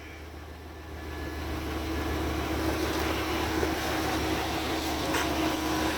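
1999 Chevrolet Suburban K1500's V8 engine idling just after starting: a steady low hum that grows a little louder over the first second or two.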